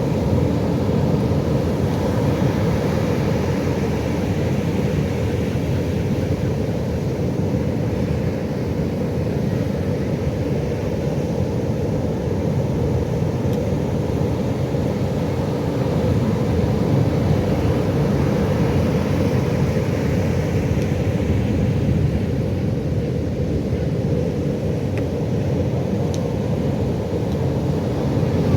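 Ocean surf: a continuous low rumble of waves breaking, rising and falling gently in level.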